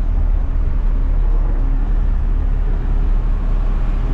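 Front-loader garbage truck's diesel engine running steadily, a low even hum with no change in pitch, heard from inside the cab.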